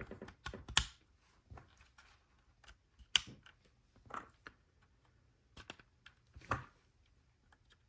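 Scattered light clicks and taps of plastic Lego pieces being handled on a tabletop, with a few sharper clicks about a second in, about three seconds in and near six and a half seconds.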